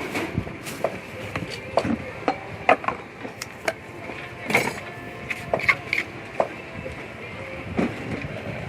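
Irregular wooden knocks and clicks of utensils from Thai papaya-salad preparation at a street stall.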